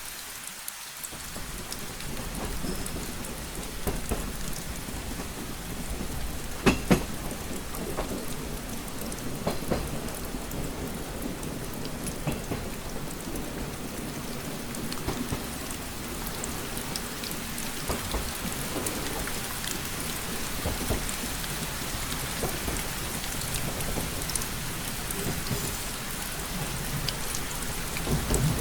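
Steady rain pattering on a train window, with scattered sharper drop taps and a low rumble underneath. A louder pair of taps comes about seven seconds in.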